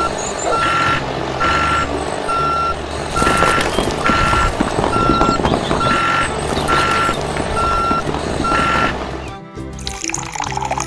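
Vehicle reversing alarm beeping at one steady pitch, about one beep a second, over a steady rushing noise and background music. The beeps stop about nine seconds in.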